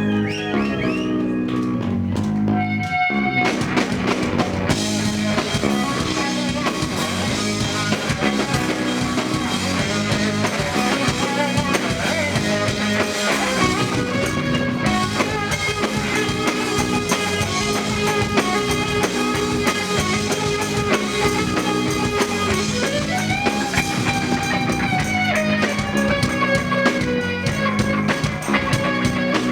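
Live rock band playing an instrumental passage with electric guitar, bass and drum kit. A sparser keyboard-like opening gives way to the full band a few seconds in.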